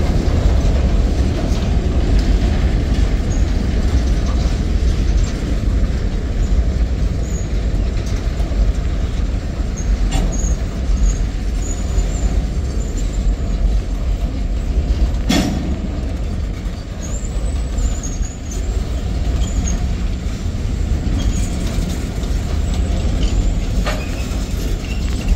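Freight cars of a Norfolk Southern manifest train rolling past at a grade crossing: a steady, loud rumble of steel wheels on rail, with a sharp clank about fifteen seconds in.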